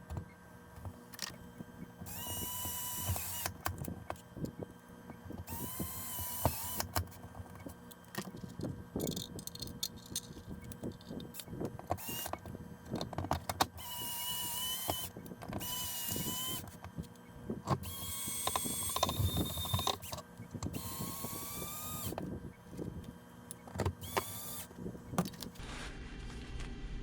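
Cordless screwdriver running in a series of short bursts, driving screws, its motor whine rising briefly as each run starts, with clicks and knocks of handling between the runs.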